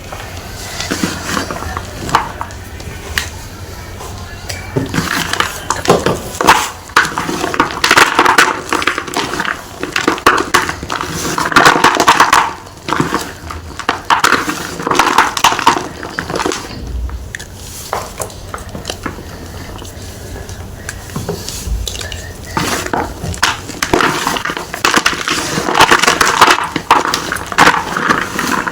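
A round block of gym chalk being crushed, giving dense crunchy crackling in uneven bunches that swell and ease off, heaviest through the middle and again near the end.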